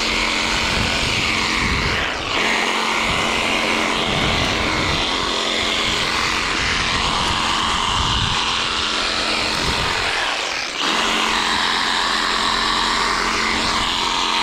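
Skil cordless reciprocating saw running while cutting through tree branches, a steady motor whine with blade noise. The motor speed dips briefly about two seconds in and again near eleven seconds, then picks back up.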